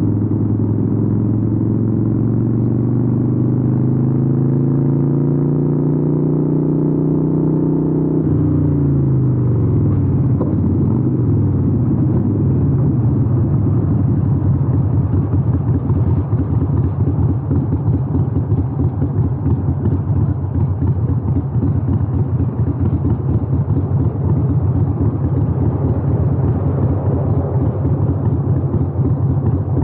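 Harley-Davidson 883N's air-cooled 883cc V-twin running through Vance & Hines exhausts. It pulls with a slowly rising note for about eight seconds, drops sharply as the revs fall, then settles into a steady, lumpy low rumble.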